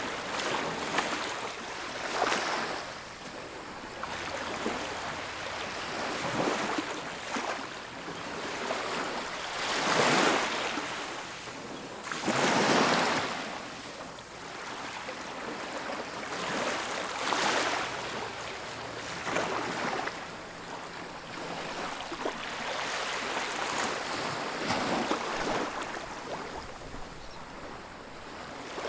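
Ocean surf on a beach: waves breaking and washing up the shore in repeated surges a few seconds apart, over a steady hiss.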